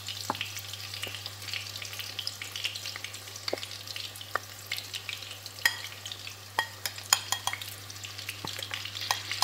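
Small battered shrimp fritters deep-frying in a pan with plenty of oil, a steady sizzle broken by sharp pops, with a cluster of louder pops about six to seven seconds in.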